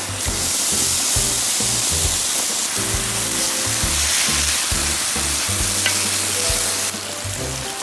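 Food sizzling in a hot pan, a loud steady hiss that cuts off abruptly about seven seconds in.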